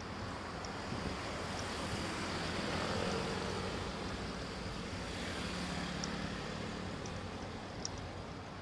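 Road traffic noise with wind on the microphone while riding in a motorcycle lane; a motor vehicle passes, loudest about three seconds in, its engine tone fading away by about six seconds.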